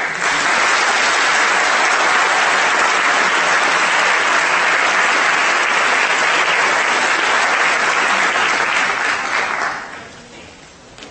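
Audience applauding, a dense steady applause that dies away about ten seconds in.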